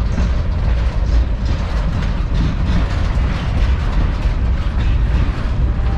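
Freight cars of a long Norfolk Southern manifest train rolling past: a steady, loud rumble with frequent wheel clicks.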